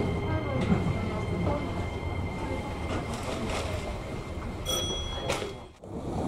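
Keisei electric train running slowly through an underground station, heard from inside the front car: a steady rumble of wheels and motors with a thin steady high tone in the first half. A brief high ringing tone sounds near the end, then the sound cuts off abruptly.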